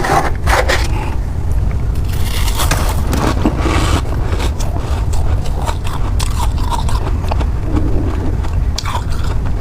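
Ice or freezer frost being scraped and bitten, with many short crunches and crackles as it is chewed, over a steady low hum.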